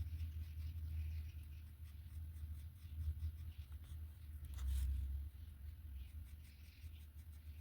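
A drawing tool scratching in short strokes on paper, over a steady low hum, with a soft bump about five seconds in.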